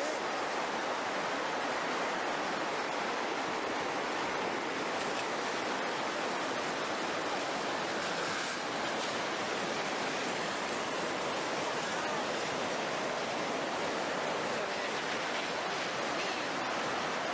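Floodwater rushing past in a steady, even roar of churning water.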